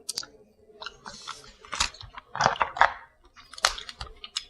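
Close-up eating sounds of someone chewing and crunching on reheated crab, in an irregular run of crackling clicks and short crunches.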